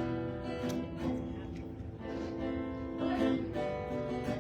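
Acoustic guitar strumming chords with held, ringing notes: the instrumental introduction leading into the next folk song.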